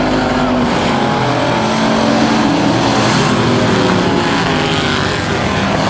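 Several racing trucks' engines running at speed around the track at once, their pitches overlapping and shifting as they pass.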